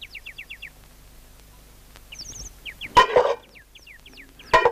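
Birds chirping in quick runs of short, falling chirps. A sharp knock comes about three seconds in and another near the end.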